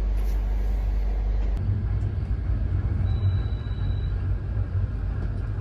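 A steady low hum for about a second and a half, then the low, uneven rumble of a passenger train carriage under way, with no rhythmic clacking of rail joints, as on welded rail.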